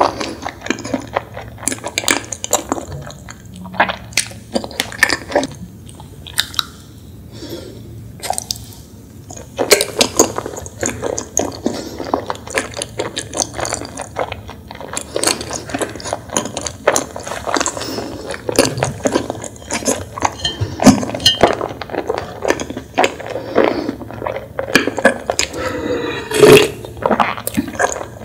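Close-miked mouth sounds of chewing a strawberry chapssaltteok skewer, a chewy glutinous rice cake with a pink crumb coating: many quick, irregular wet smacks and clicks.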